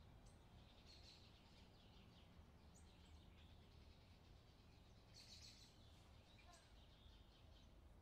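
Faint birdsong: scattered short, high chirps and calls, with a busier flurry about five seconds in, over a low steady hum.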